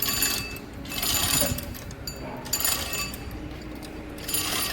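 Intermittent metallic clinking and rattling, several short bursts, as an engine is lowered into a car's engine bay.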